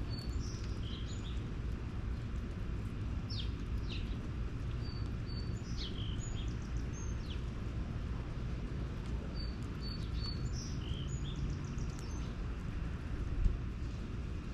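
Small birds chirping in short, scattered high notes and quick downward-sliding calls over a steady low background rumble, with one brief low thump near the end.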